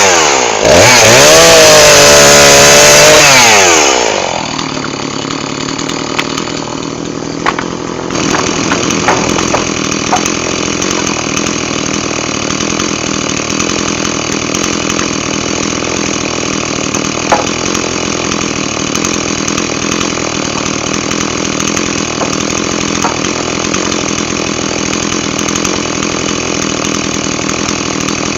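Chainsaw at full throttle, its pitch wavering under load as it cuts wood, for about the first four seconds, then dropping back to a steady idle with a few light knocks.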